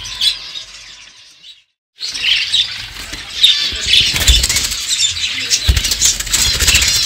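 A roomful of caged pet birds chirping and twittering together. The chirping fades and cuts out for about half a second, then comes back louder with fast clicks, rustles and a couple of low thumps.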